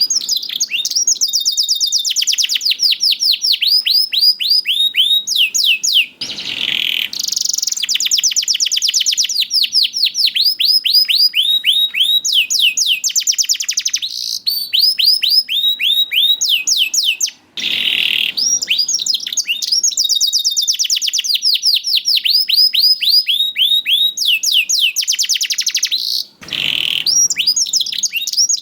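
Domestic canary singing long, rapid trills of repeated downward-sweeping whistled notes, with a few brief pauses between phrases.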